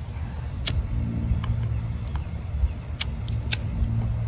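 A car driving past, its engine making a steady low hum, with a few short sharp clicks, at about a second in and twice near three and a half seconds.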